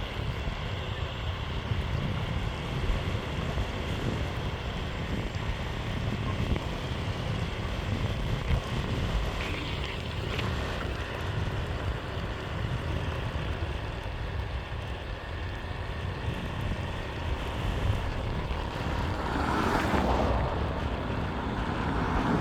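Wind buffeting the microphone over the steady rumble of a Meepo Hurricane electric skateboard's honeycomb wheels rolling on pavement. A louder rushing swell comes about twenty seconds in.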